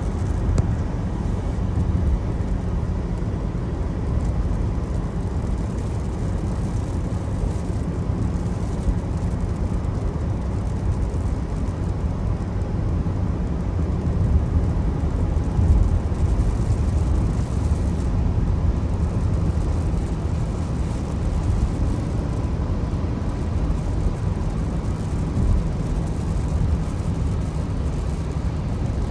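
Steady road noise of a car driving on wet roads in the rain: a constant low rumble of tyres and engine with a wash of rain and road spray.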